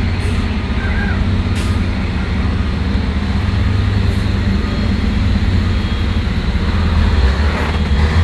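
Heavy trucks' diesel engines running as the trucks drive slowly past in a line, a steady low drone with a few short hisses.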